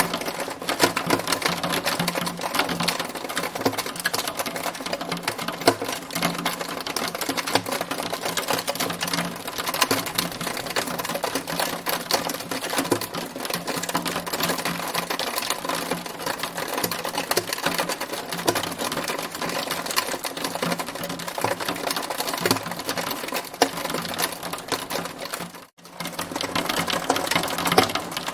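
Hailstones falling: a dense, continuous clatter of rapid small impacts, briefly cutting out for a moment near the end.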